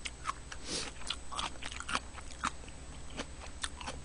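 A person chewing food close to the microphone: soft, irregular wet mouth clicks and smacks.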